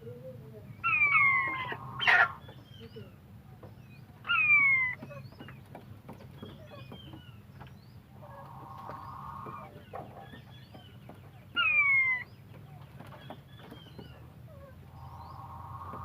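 Birds calling: three loud falling whistled calls, about a second in, around four seconds and near twelve seconds, over many short faint chirps, with two longer buzzy calls in between and a sharp click just after two seconds.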